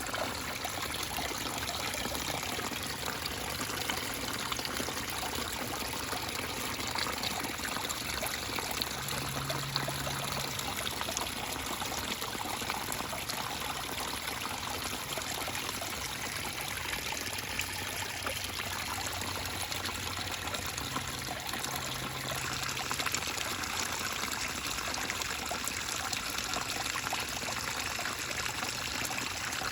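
Small pond waterfall splashing and trickling steadily into the water.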